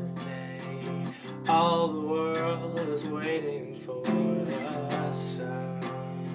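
Acoustic guitar being strummed, ringing chords in a steady accompaniment.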